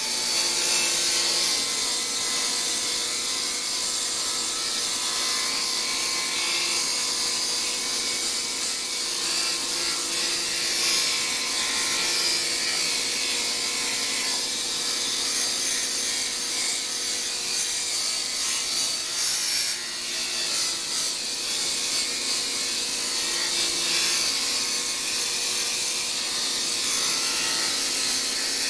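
Abrasive power tool running steadily against a steel surface, sanding or grinding it down to bare metal to prepare the steel for a finish.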